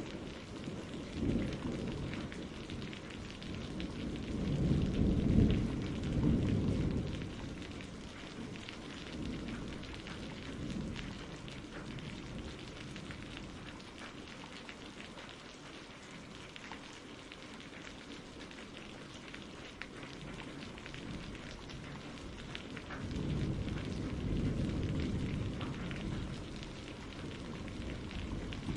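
Steady rain with rolling thunder. One long rumble swells in the first seven seconds, and a second builds about three-quarters of the way through.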